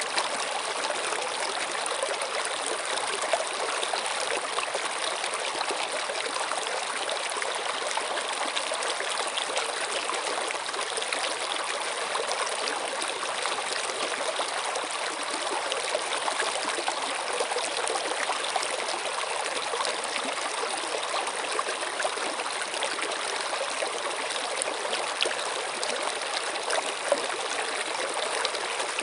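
Running water of a stream, flowing in a steady, unbroken rush with small splashes throughout.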